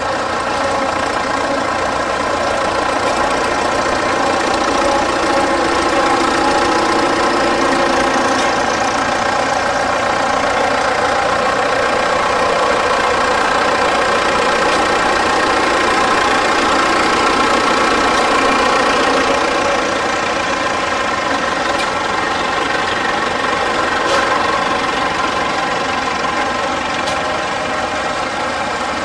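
Vintage tractor engines running steadily at low speed, a little louder through the middle as they go by.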